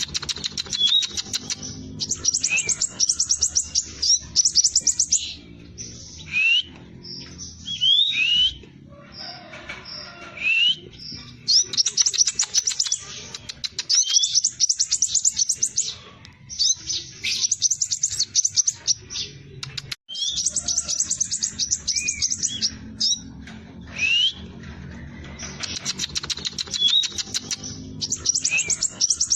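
Scarlet minivet (sepah raja) singing: repeated bursts of very fast, high trills about a second each, separated by short gaps and mixed with short sliding whistled notes.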